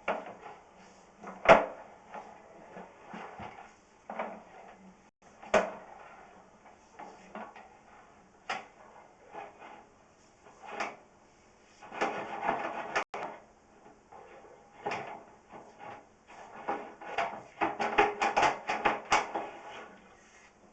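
Sewer inspection camera's push cable being fed down a vent pipe: irregular knocks and scraping clatters, with bursts of quick rattling about two-thirds of the way through and near the end.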